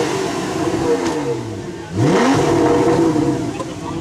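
Sports car engine being revved with no load: a rev falls away, then about halfway through a quick blip climbs sharply, holds briefly and eases off near the end.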